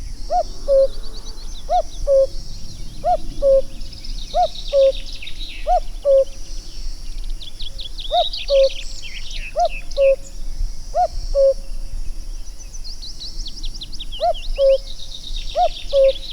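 Cuckoo calling its two-note "cuck-oo", a higher note falling to a lower one, repeated about every second and a half with a short break two-thirds of the way through. Smaller birds twitter in quick high trills behind it.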